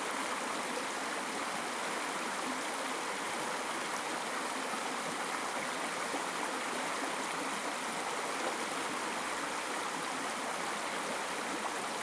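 River water flowing: a steady, even rushing that does not change.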